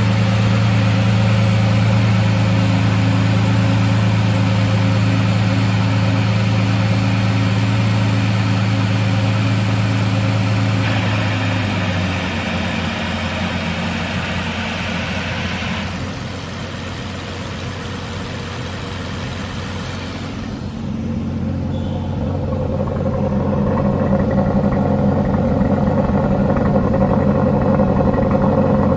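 Aston Martin DB11's twin-turbo V12 idling after a cold start, a steady engine note. The note changes about twelve seconds in and again around twenty seconds in, then grows louder.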